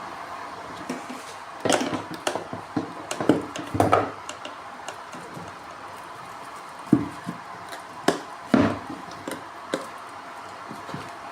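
Scattered knocks and clatters of hard parts being handled, in two bursts, over a steady machine hum.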